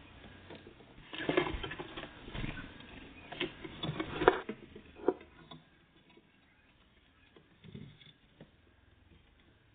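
Small birds pecking and scrabbling at a feeder: a flurry of taps, knocks and rustling for the first few seconds, then only a few faint taps.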